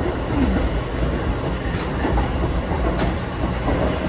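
Eizan Electric Railway "Hiei" sightseeing railcar running along the track, heard from inside at the front behind the driver's cab: a steady running rumble, with two sharp clicks a little over a second apart near the middle.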